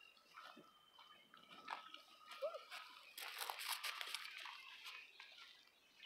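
A flock of birds calling: a few thin whistled notes at first, then a busier stretch of overlapping harsh calls from about three seconds in.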